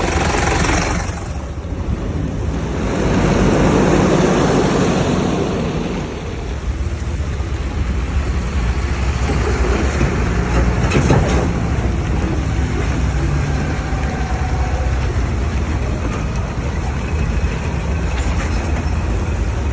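Road traffic: vehicle engines running with a steady low rumble, swelling louder for a couple of seconds about three seconds in.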